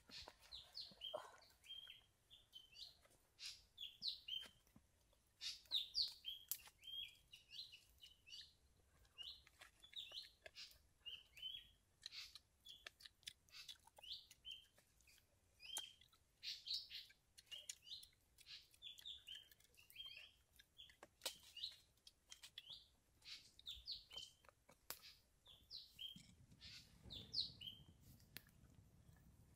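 Small birds chirping throughout: many short, high chirps and trills, several a second. A faint low rushing noise comes in near the end.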